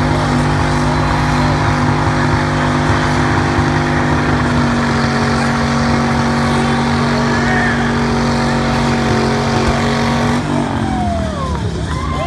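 Car engine held at high, steady revs over a hiss of spinning tyres, as in a burnout. The revs drop near the end and the tyres squeal.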